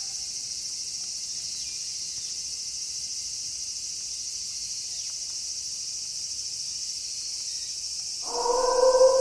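Steady, high-pitched chorus of crickets. About eight seconds in, a wolf starts a long howl held at a nearly steady pitch, louder than the insects.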